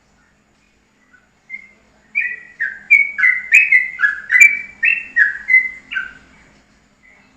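A songbird singing a quick run of about a dozen clear whistled notes, each stepping down in pitch, about three a second. It starts with a single note, then the run begins about two seconds in and ends about a second before the close.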